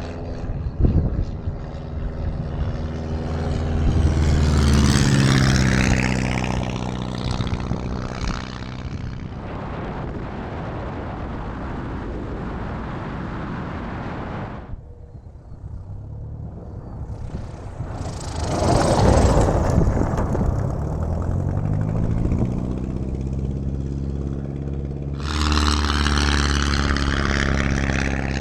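A 1941 Aeronca Super Chief light aircraft's piston engine and propeller flying low past, close by on repeated water-skimming landing attempts. The engine swells and its pitch drops as the plane goes by, three times: about five seconds in, near the twentieth second, and near the end.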